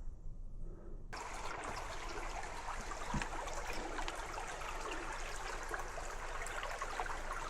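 Small babbling brook, water running and trickling over stones, starting abruptly about a second in and then going on steadily.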